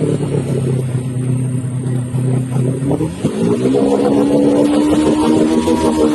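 Motorcycle engine running at low revs, then revving up about three seconds in and holding the higher engine speed.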